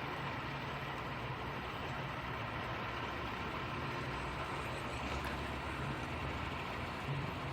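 An engine idling unattended, left running for over an hour: a steady low hum under an even rushing noise.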